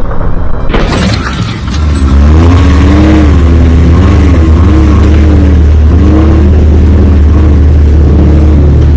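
A motor vehicle engine running loud over a heavy low rumble, its pitch rising and falling again and again as the throttle is worked. A sharp knock comes just under a second in.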